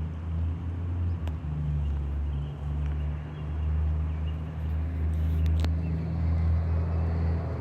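Car engine idling: a steady low hum, with a couple of faint clicks.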